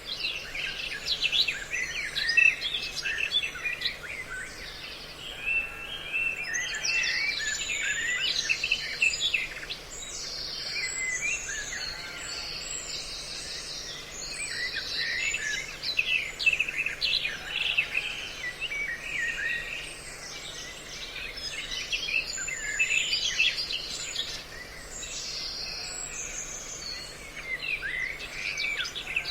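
Dense, continuous mix of many songbird calls, chirps and trills overlapping, from a bird-call lure recording used to draw birds in for trapping. A faint steady low hum lies underneath.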